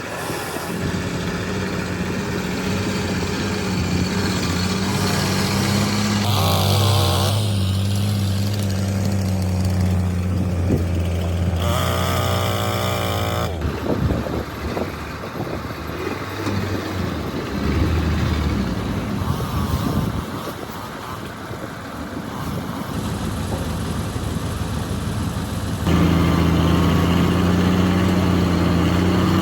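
Diesel engines of heavy earthmoving machines running under varying load, with a steady low engine hum throughout. The engine sound changes abruptly twice and gets louder near the end.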